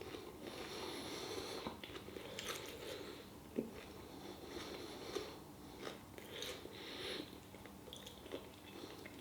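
A person biting and chewing food close to the microphone, with soft crunches and one sharper click about three and a half seconds in.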